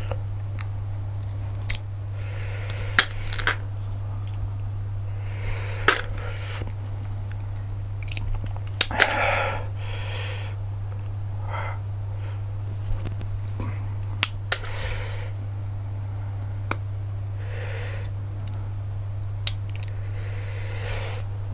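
Eating cooked cockles: scattered sharp clicks of shells being prised open and clinking together, with short bursts of chewing and slurping, over a steady low hum.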